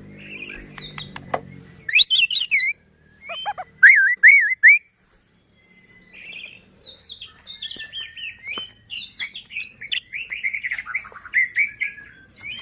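White-rumped shama (murai batu) singing a varied song of whistles, fast trills and harsh crackling rattles (kretekan), with a short break about five seconds in before a long run of rapid phrases.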